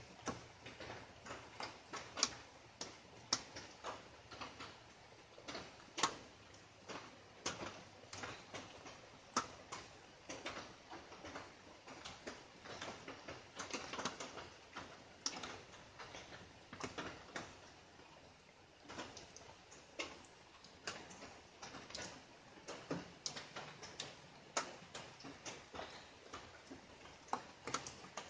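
Light rain, heard as individual drops ticking irregularly, several a second, over a faint hiss.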